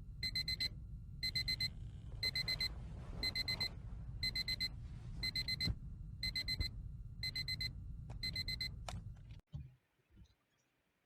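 Digital alarm clock beeping: bursts of rapid high-pitched beeps about once a second, which stop about nine seconds in, over a low rumble.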